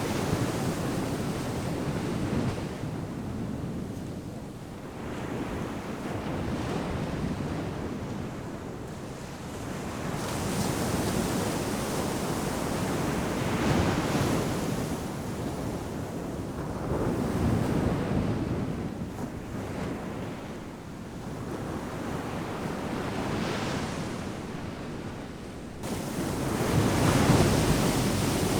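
Ocean surf breaking on a beach, a steady wash of noise that swells several times as waves come in and eases as they draw back.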